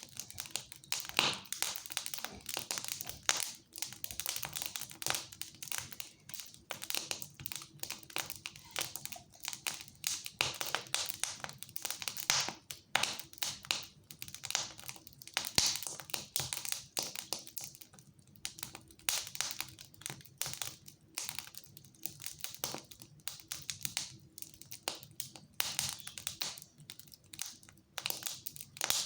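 Fire crackling in a fireplace: a dense, irregular run of sharp snaps and pops.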